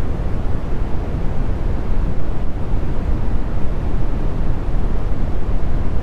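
Brown noise: a steady, even, low rumble with its energy at the bottom, fading out toward the high end.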